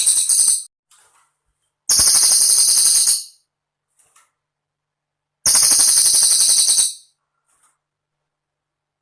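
Cililin bird song: rapid, very high-pitched trills in separate bursts. One trill ends just after the start, then two more of about a second and a half each follow, with silent gaps between them.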